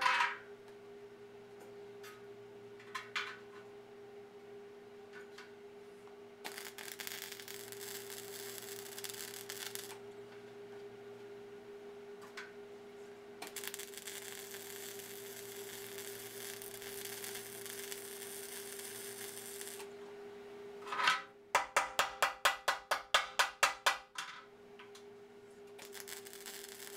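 Electric arc welding on a rusty steel tractor rim: two long runs of arc crackle over a steady hum. Near the end comes a quick run of sharp metallic strikes, about five a second. The weld is spattering because it is laid on top of rust.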